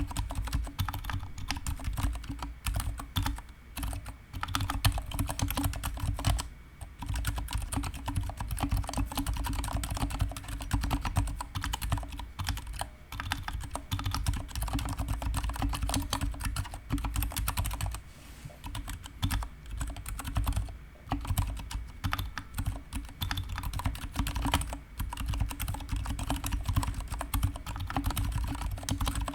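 Continuous typing on a GK61 mechanical keyboard with stock, unlubricated Gateron silent brown switches and PBT pudding keycaps: a dense, steady run of keystrokes with brief pauses about 7 and 18 seconds in.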